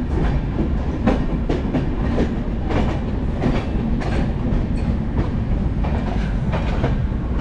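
Passenger train running on the rails: a steady rumble with the wheels clicking over rail joints about twice a second.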